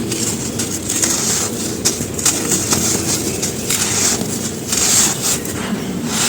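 Dry charcoal ash chunks being crumbled and crushed, a continuous crunching with uneven surges and scattered sharp crackles.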